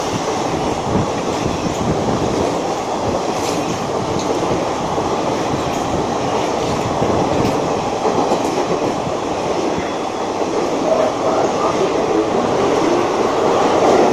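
Passenger coaches of an express train rushing through a station at speed: a steady rumble of wheels on rail, with occasional clicks from wheels passing over rail joints.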